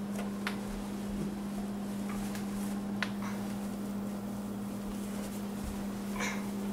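A steady low hum with a few faint, sharp clicks, like dishes or utensils being lightly knocked, about half a second in, around three seconds and near the end.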